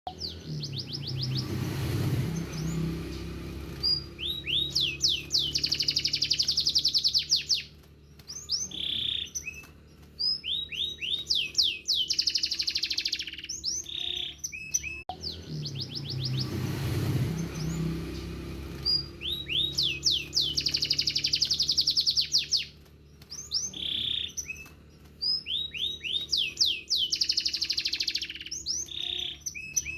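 Domestic canary singing long phrases of rapid trills and fast-repeated whistled notes, broken by short pauses.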